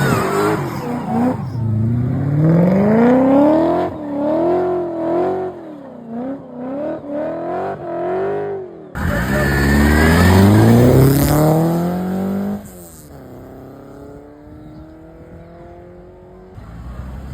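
Cars accelerating hard, engines revving up with rising pitch. The first car's revs climb, then rise and fall several times. About nine seconds in, a second car suddenly comes in loud and revs up past, and near the end a further car revs up more faintly.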